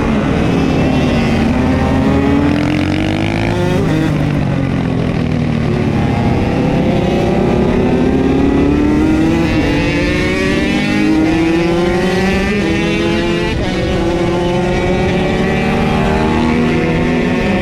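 KTM SX motocross bike engine being ridden hard, its pitch climbing and dropping again and again as it is revved out and shifted.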